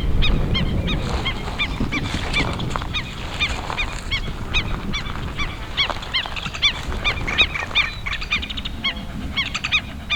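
A flock of American avocets calling: many short, high, sharp notes repeated several times a second and overlapping, growing busier near the end.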